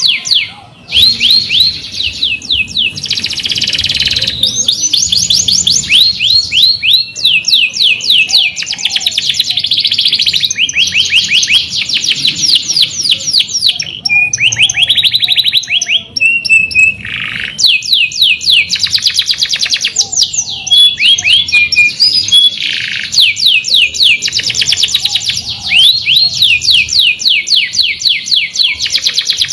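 Domestic canary singing a long, loud song of rapid rolling trills, each a fast run of repeated down-sweeping high notes, with only brief breaks between phrases.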